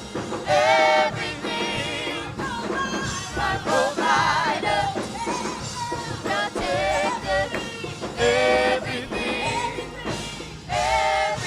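Gospel praise music: singing with vibrato over a full band accompaniment.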